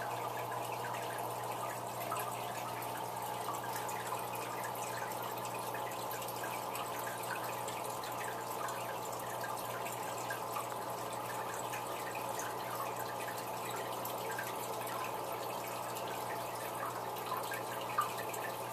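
Aquarium water trickling and splashing steadily into the tank, as from a running filter's outflow, over a low steady hum.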